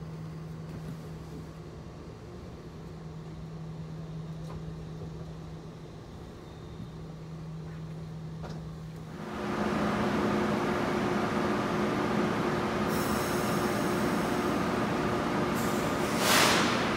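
Train at a station: a steady low hum with one tone, then a little past halfway the sound jumps to a louder rumble with several steady higher tones. A short hiss comes near the end.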